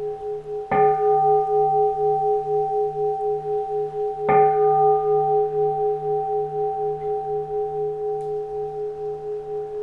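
Keisu, a Zen Buddhist bowl bell, struck twice about three and a half seconds apart. Each strike rings on in long sustained tones with a slow, wavering pulse, fading gradually.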